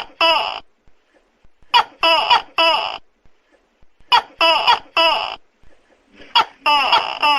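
Tokay gecko calling loudly and over and over. Each call is a sharp click followed by two or three pitched, bending barks, and a new call comes about every two and a half seconds.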